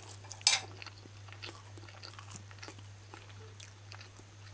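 A person chewing a mouthful of pancake, with small wet mouth clicks and a sharper click about half a second in, over a steady low hum.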